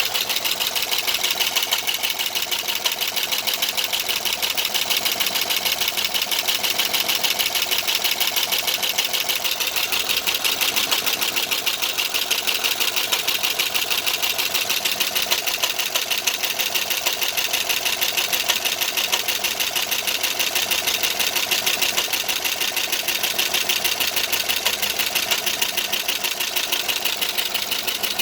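Pontiac G8 GT's 6.0-litre V8 running with a fast, steady ticking from the valvetrain: a lifter tick that came on after a cam and DOD (cylinder deactivation) delete. The owner wonders whether the delete was done right.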